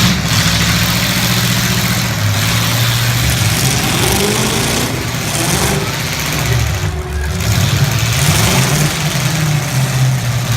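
Full-size demolition derby car engines running loud, revving up and down several times, the pitch rising and falling.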